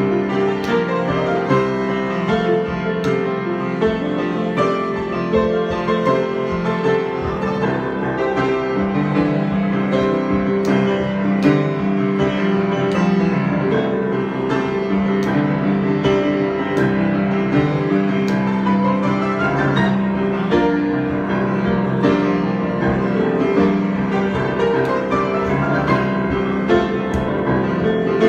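Solo piano improvisation: a continuous flow of sustained chords and frequent struck notes at an even loudness.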